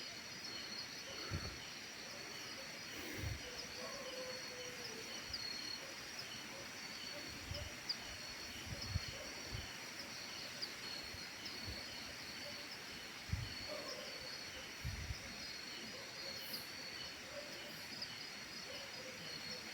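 Insects trilling steadily in a high, even drone, with a faint repeating chirp, and a few soft low thumps scattered through.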